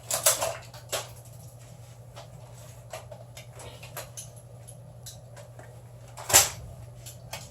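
Clicks and knocks of airsoft gas blowback rifles being handled, with a sharp clack just after the start, another about a second in, and a louder single clack near the end.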